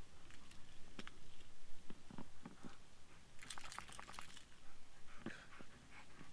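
Crunching and crackling in snow: scattered soft crunches, with a denser burst of crackling about halfway through.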